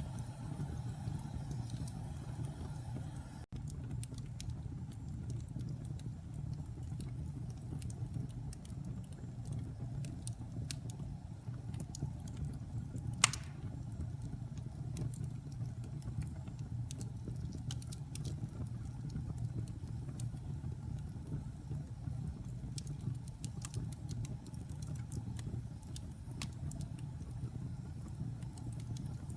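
Wood fire burning in a fireplace: a steady low roar of the flames with scattered small crackles and one loud pop about halfway through.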